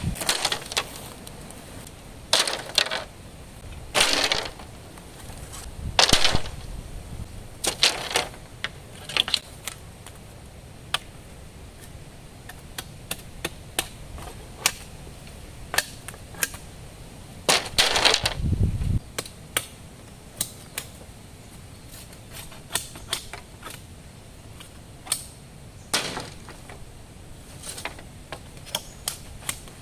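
Irregular sharp clicks and knocks, scattered unevenly, with a few longer rustling or scraping bursts, the biggest of them about two-thirds of the way in.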